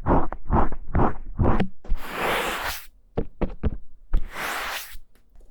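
ASMR ear triggers on a KU100 binaural dummy-head microphone: a quick run of short rubbing or tapping strokes, about five a second, then two longer swishes with a few sharp knocks between them.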